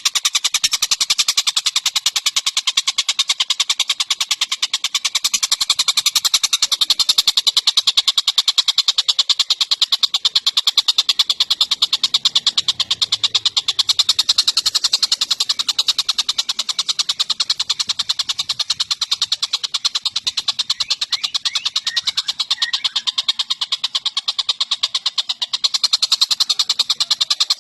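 Tengek cililin bird singing a long, fast trill of rapidly repeated high notes that runs on without a break.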